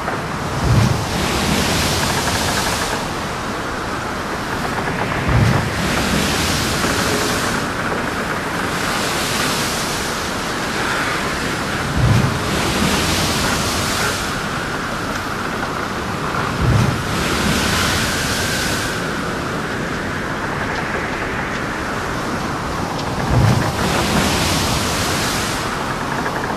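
Steady rushing of wind and sea waves. A wave swells and washes through every five to seven seconds, each one opening with a low thud.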